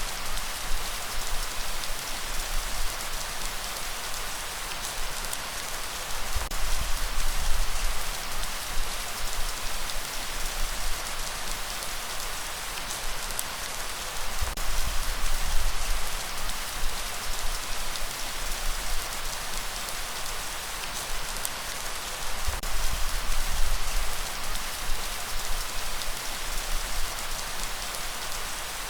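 Steady heavy rain with a dense, even hiss, over a deep low rumble that swells about every eight seconds.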